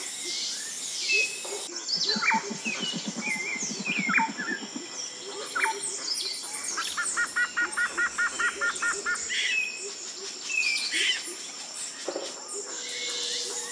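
Wild birds chirping and calling. About halfway through, one bird repeats a short note about four times a second for a couple of seconds.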